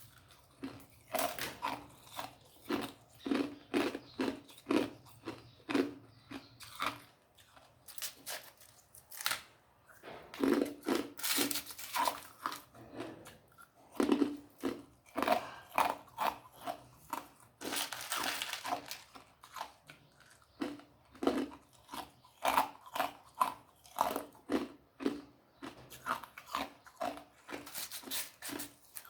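A person biting and chewing ice: a fast, uneven run of crunches, several a second, coming in bursts.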